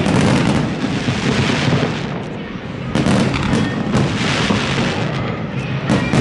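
Aerial fireworks bursting in rapid succession, a dense barrage of bangs and crackle that eases about two seconds in and comes back loud about three seconds in.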